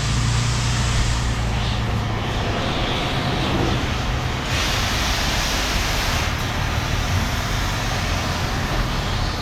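A vehicle engine running steadily, with a low hum that drops away about four and a half seconds in, leaving a steady rushing noise.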